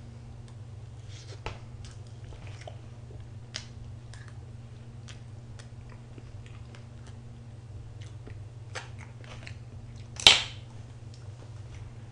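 Someone chewing soft cream cake close to the microphone, with many small wet mouth clicks, over a steady low hum. About ten seconds in, a short loud rush of noise.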